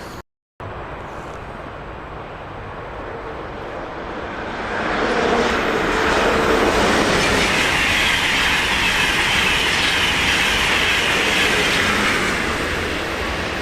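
A train passing through the station: the rolling noise of its wheels on the rails swells about four seconds in, stays loud for several seconds and eases off near the end.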